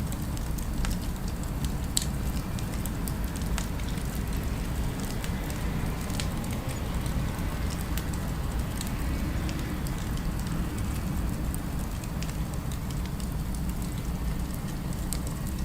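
Fireplace crackling: scattered sharp pops and snaps over a steady low rumble.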